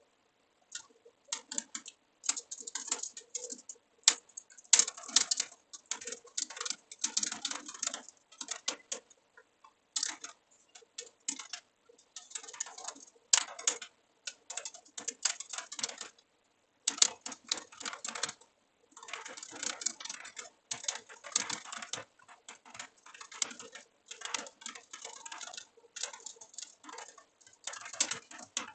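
Typing on a computer keyboard: quick runs of keystrokes broken by short pauses of about a second, with a single louder key stroke now and then.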